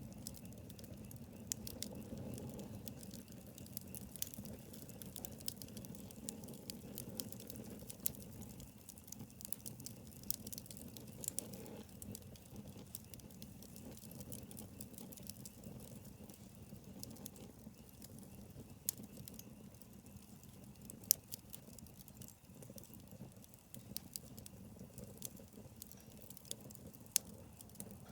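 Wood bonfire crackling ("pachi-pachi"): irregular sharp snaps and pops over a low rush of burning flames. Two louder pops stand out in the latter part.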